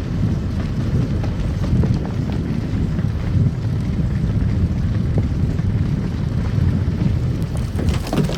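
Car driving on a snow-covered road: a steady low rumble of tyres and engine, with a short patch of crackling near the end.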